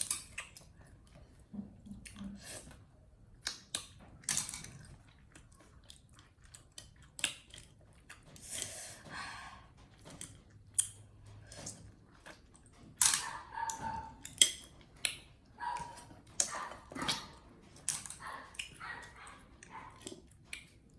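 A monkey eating: irregular crunching, chewing and small clicks of food being bitten and handled, in quick uneven runs.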